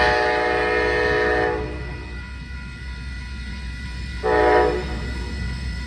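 Leading locomotive's air horn on an approaching train: a long blast that ends about a second and a half in, then a short blast about four seconds in, typical of the horn sequence sounded for a road crossing. Low rumble of the train underneath.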